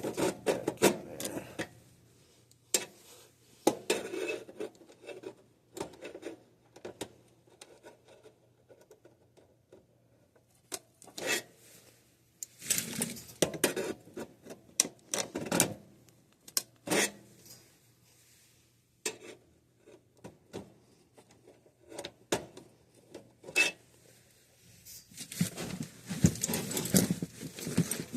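Scattered metallic clicks, taps and rattles of hand tools and stiff wiring as the wires are worked into the terminals of a replacement breaker inside an air handler's cabinet, in short flurries with pauses, busiest near the end.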